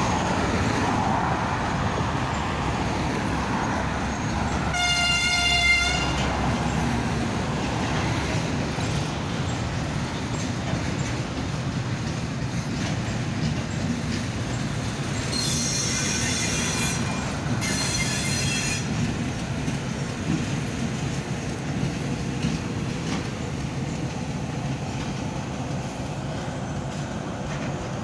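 Freight train behind a ChME3 diesel shunting locomotive rolling past with a steady low rumble of engine and wheels. About five seconds in a horn sounds for about a second, and later two higher-pitched blasts follow in quick succession, the first longer than the second.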